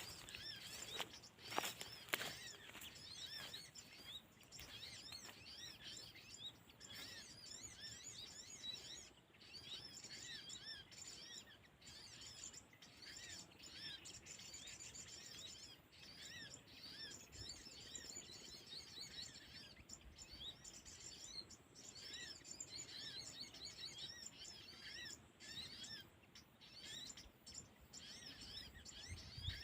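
Small birds chirping: many short, high chirps repeating densely and faintly, with a few knocks in the first couple of seconds.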